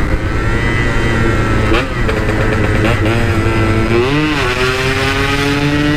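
Yamaha RX-King's 135cc two-stroke single-cylinder engine running through a stock-style aftermarket exhaust while riding, with short throttle blips about two and four seconds in and the revs climbing steadily near the end.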